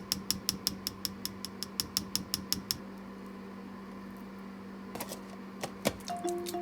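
A kitchen appliance humming steadily with rapid, regular ticking at about four ticks a second that stops about two and a half seconds in; the hum carries on, with a few separate clicks near the end.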